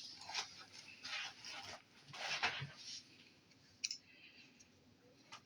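Plastic slime packaging rustling as it is handled, in uneven bursts, with a couple of small sharp clicks near the end.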